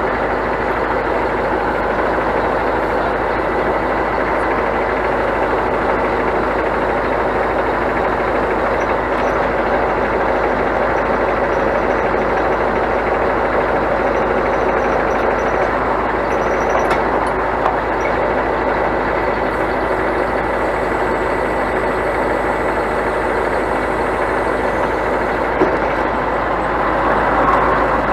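Scania truck's diesel engine running steadily, an even drone with no change in pace.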